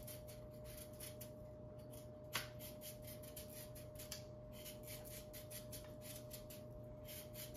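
A knife peeling a coco root, with quick faint scraping strokes one after another and one sharper click about two and a half seconds in.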